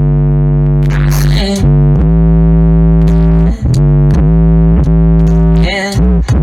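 Hip hop music with deep, sustained bass notes played very loud through a car audio system on demo, the bass line changing pitch every second or so with a few short drops.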